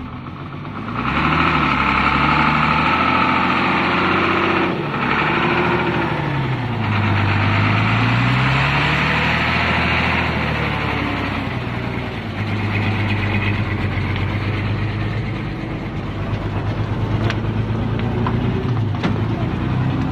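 Hino truck's six-cylinder diesel engine labouring under load, the revs rising and falling several times as the truck is driven through deep mud.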